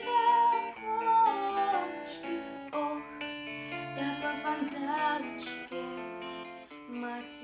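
Instrumental introduction to a slow song: acoustic guitar strumming chords, with a melody line over it.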